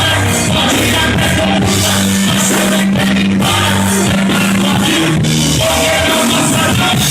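Loud rock-style band music with singing.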